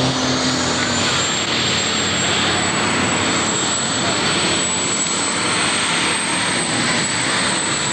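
Super stock pulling tractor's turbocharged diesel engine running hard under load, with a steady high turbocharger whistle over the engine noise.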